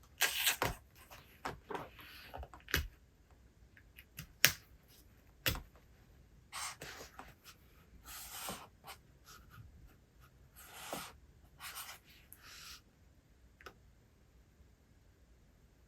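Paper handling at a desk: a book's pages rustling and being turned, with several sharp taps and clicks between short rustles.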